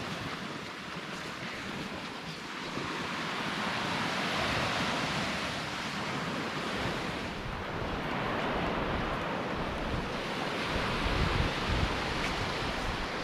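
Sea waves washing onto a beach in the wind, the surf swelling louder twice, with gusts buffeting the microphone near the end.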